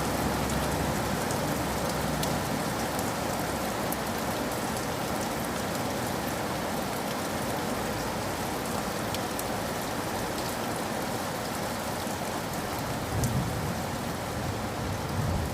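Steady rain falling, with scattered sharp drip ticks throughout. A low rumble swells briefly about two-thirds of the way through and again near the end.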